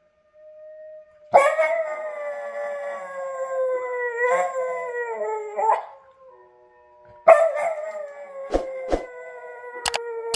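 Corgi howling: two long howls, each sliding slowly down in pitch. The first runs about four seconds and the second starts about seven seconds in. A few sharp clicks come during the second howl.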